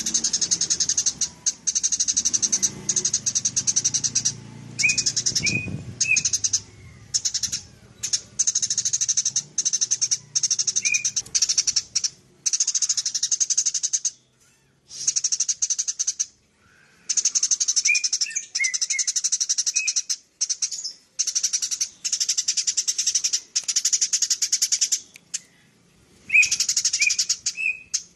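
Eurasian tree sparrow chattering in fast, dense runs of high chirps, each run lasting a few seconds and broken by short pauses, with a few separate lower chirps in between.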